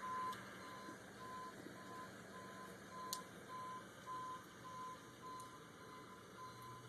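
Tow truck's reversing alarm beeping, a single faint tone repeating evenly about two and a half times a second over a low steady hum.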